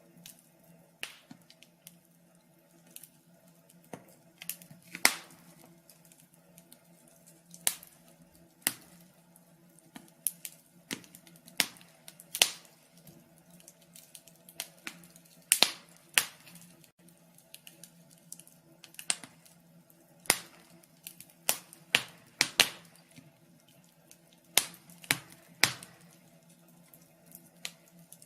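Wood fire crackling: irregular sharp pops and snaps, a few every couple of seconds, over a faint steady hum.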